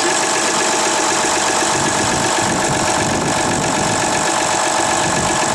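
Diesel engine idling with a steady, rhythmic knock, just after a cold start pulled up with ether.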